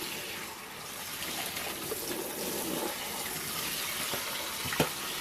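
Kitchen tap running steadily, water splashing through cooked soaked seed in a sieve as it is rinsed clean. A single sharp knock near the end.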